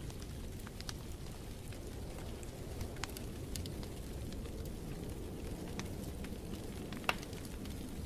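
Wood fire crackling in a fireplace: scattered sharp snaps and pops over a steady low rumble, with one louder pop about seven seconds in.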